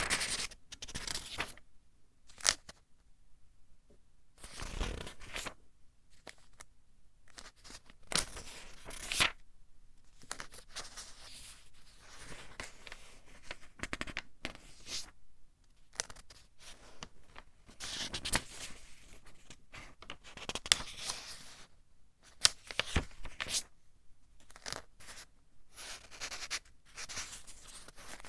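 Pages of a thin-paper book being turned one after another: irregular papery rustles and flicks with short pauses between them, a few landing as sharper snaps.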